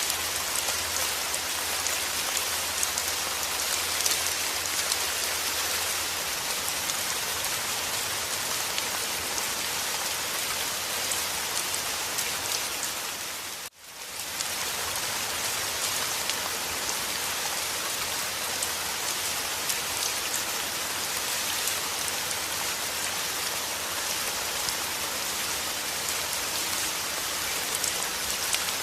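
Steady rain falling, a dense hiss of many drops with fine ticking patter. About halfway through it cuts out for an instant and swells straight back, like a loop or edit seam in the recording.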